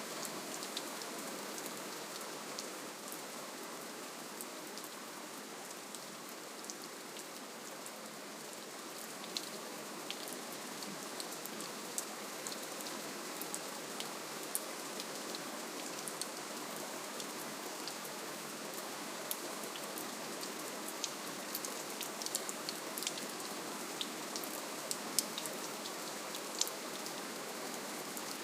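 Steady gentle rainfall: an even hiss of rain with many small, scattered drop ticks.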